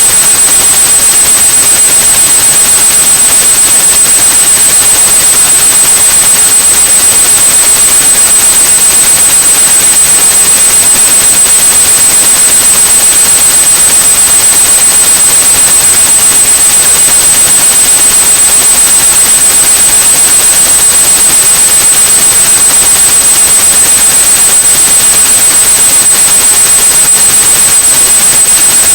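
A steady, high-pitched 8100 Hz tone over continuous white-noise hiss, a tinnitus-masking sound.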